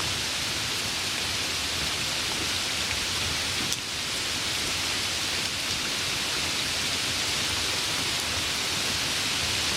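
Steady rain falling, an even hiss, with one brief tick a little under four seconds in.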